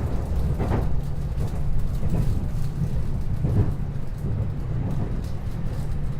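Running noise inside a 521-series electric multiple unit's motor car travelling at speed: a steady, heavy low rumble of wheels on rail and running gear.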